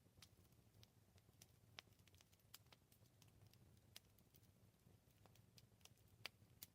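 Campfire burning faintly: scattered sharp crackles and pops, a few a second, over a low steady rumble, with a louder pop near the end.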